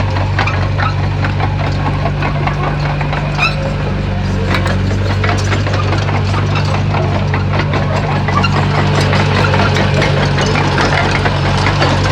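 Bulldozer's diesel engine running steadily under load, with scattered cracking, snapping and scraping sounds over it. The engine gets a little louder about eight seconds in.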